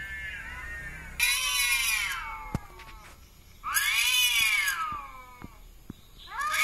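Kitten meowing loudly and repeatedly, crying for its mother: a call trails off, then two long meows that rise and fall in pitch about two seconds apart, and a third starts near the end. A sharp click sounds between the first two meows.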